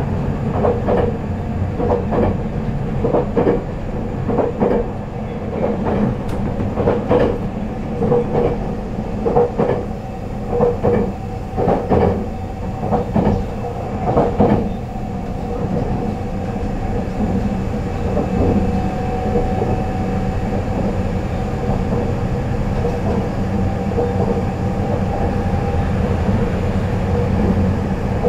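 Running sound of a JR Central HC85 hybrid diesel train, heard on board: wheels clacking over rail joints, repeatedly for about the first fifteen seconds, over a steady rumble. In the second half the clacks fade and a faint steady tone holds above the rumble.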